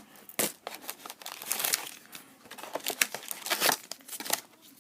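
Wrappers of 2010-11 Panini Pinnacle hockey card packs crinkling and tearing as packs are handled and opened by hand, in irregular crackling rustles that are loudest about two seconds and four seconds in.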